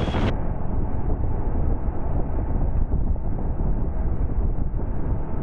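Motorcycle at freeway speed heard on the rider's microphone: a steady low wind rumble with engine and road noise underneath. A moment in, the high end drops out and the sound turns muffled.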